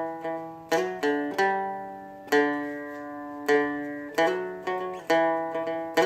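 Seagull Merlin M4, a four-string dulcimer-style instrument, strummed with a pick in an uneven rhythmic pattern, each strum followed by chords that ring and fade. This is the basic strumming pattern of the song.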